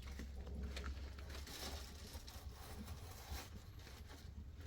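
Faint rustling and scattered light taps over a low steady hum.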